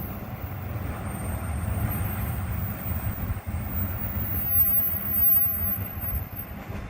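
Train passing on the rails: a low, steady rumble of the wagons rolling by, swelling briefly about five seconds in.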